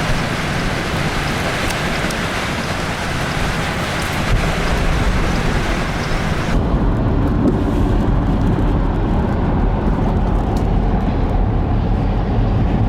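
Strong wind blowing, a loud steady rushing hiss with low rumbling on the microphone. About halfway through, the hiss drops away abruptly and the low rumble takes over.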